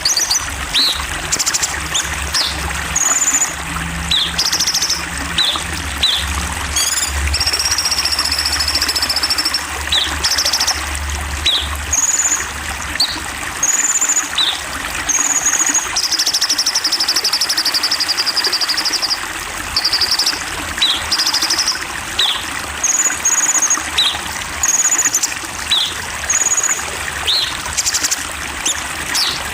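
Songbirds calling over flowing water: many short high chirps and whistles and two longer, buzzy trills, one about seven seconds in and one about sixteen seconds in, over the steady rush of running water.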